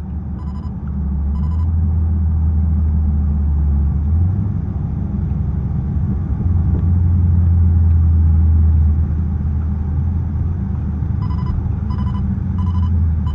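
Muffler-deleted exhaust of a Dodge SRT 392's 6.4-litre HEMI V8 running loud on the move, with no muffler on the exhaust. It swells louder about a second in and again from about six to nine seconds. A repeating electronic chime beeps near the end.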